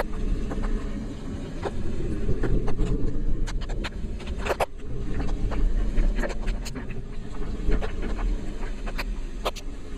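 Steady low rumble of riding along the road, with scattered sharp ticks of light raindrops striking the rain cover over the microphone.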